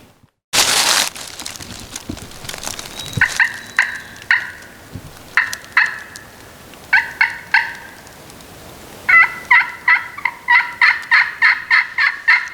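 Wild turkey-type yelping: short, clear notes in a few groups of two to four, then a longer, faster run of about ten yelps near the end. A brief burst of rustling comes about half a second in.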